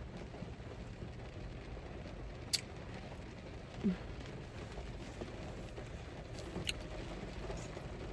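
Quiet room tone with a steady low hum, broken by two faint sharp clicks and a brief low sound near the middle.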